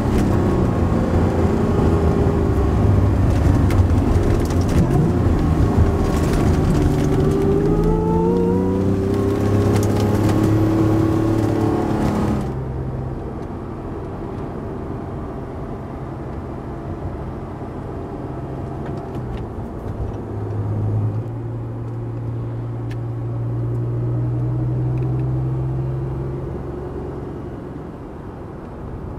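Comptech-supercharged Acura NSX's V6 heard from inside the cabin while driving, its revs rising and falling. About twelve seconds in the sound cuts abruptly to a quieter, steadier engine hum that swells for a few seconds near the end.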